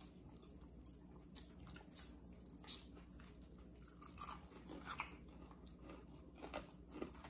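People chewing and biting into fried food: faint, scattered crunches and mouth sounds.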